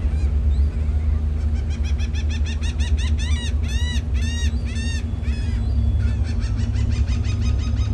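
A bird calling in a long, rapid series of notes, about three to four a second. Each note rises and falls in pitch, and the run starts faint, grows loudest in the middle, then quickens and fades. Under it runs a steady low drone.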